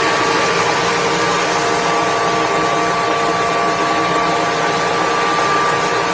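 Generac Guardian 4456 standby generator running steadily, a constant machine drone with a few steady tones over it.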